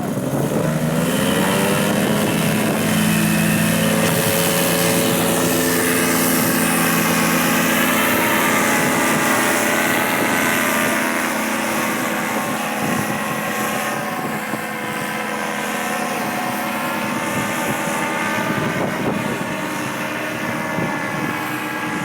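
Paramotor engine and propeller revving up over the first couple of seconds, then running steadily at high power, a little quieter in the second half.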